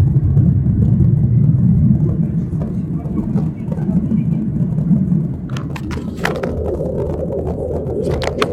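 Low rumble inside the cabin of a Boeing 737-800 rolling along the ground, its CFM56 engines running. The rumble eases about halfway through, and a few sharp clicks and rattles from the cabin follow near the end.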